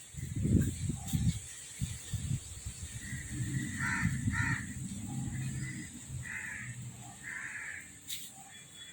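Crows cawing several times in the background, a handful of short harsh calls, over a low rumble that is loudest in the first second or so.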